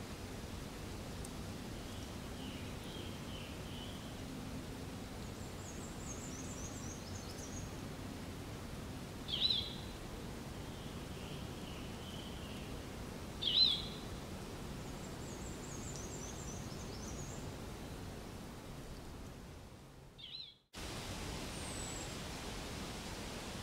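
Outdoor ambience with a steady hiss, over which birds give repeated rows of short high chirps and two louder, sharp calls about nine and thirteen seconds in. The sound fades and drops out briefly about two-thirds of the way through, then resumes with a few more high chirps.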